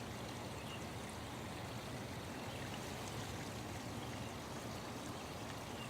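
Faint, steady running water of a stream, an unbroken background nature sound.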